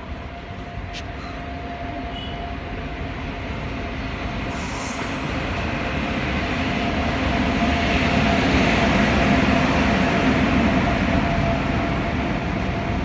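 WAP-7 electric locomotive hauling a long passenger express past a station platform. A steady hum and rumble grows louder as the locomotive draws alongside, then the coaches roll past, loudest about two-thirds of the way in. A brief high hiss comes about four and a half seconds in.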